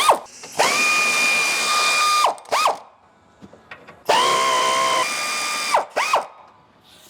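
Power wrench running in two bursts of about two seconds each, spinning up to a steady whine and winding down, each followed by a short blip: nuts being run off the sway bar links.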